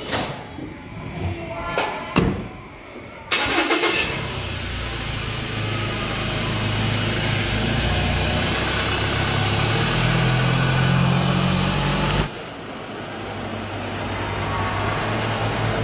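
A motor vehicle's engine starts about three seconds in and then runs steadily. Near the end the sound suddenly turns duller while the engine hum carries on.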